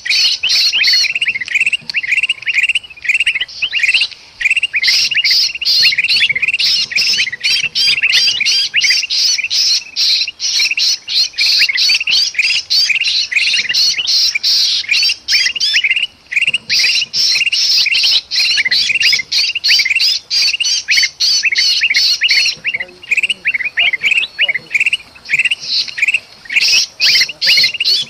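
Kutilang bulbuls calling noisily: a dense, rapid run of chattering calls and harsh squawks with hardly a break, mixing the excited calling of golden kutilang with the distress calls of a trapped kutilang, used as a lure. The calling thins briefly about 23 seconds in.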